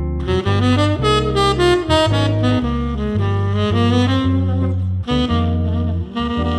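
Jazz music led by saxophone over a walking bass line, the bass changing note about every half second.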